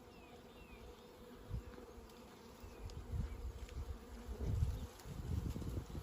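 Honeybees buzzing in a steady hum, with low rumbling bumps of handling or wind on the microphone in the second half.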